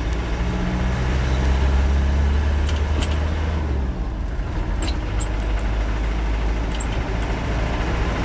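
Land Rover 90's 300Tdi 2.5-litre four-cylinder turbo-diesel pulling steadily under way, heard from inside the soft-top cab; the engine drone eases about four seconds in. A few light rattles come through, which the driver puts down to the tailgate over bumps.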